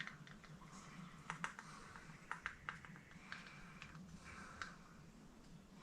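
Faint, scattered clicks and taps of small parts being handled, over a low steady hum.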